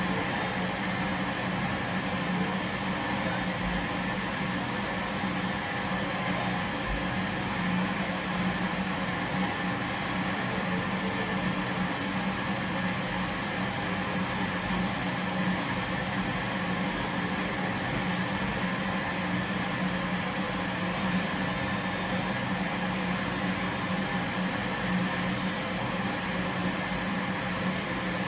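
Vacuum cleaner running steadily: a constant motor hum with a strong low drone and an even hiss, holding the same pitch and level throughout.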